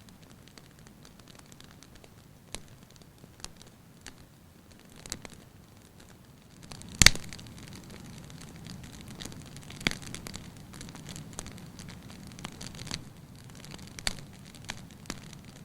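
Wood fire burning in a fireplace, crackling with irregular sharp pops, one much louder pop about seven seconds in and smaller ones around ten and fourteen seconds.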